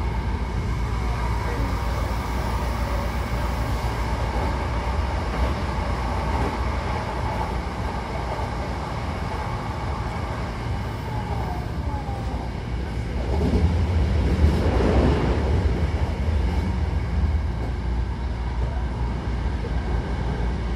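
Running noise of a Hankyu Takarazuka Line electric train heard from inside the carriage while it travels between stations: a steady rumble that grows louder for a couple of seconds a little past the middle, then settles back.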